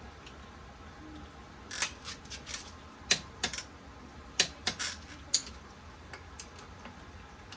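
A handful of sharp metallic clicks and clinks at irregular intervals, from hand tools and engine parts being handled on a workbench.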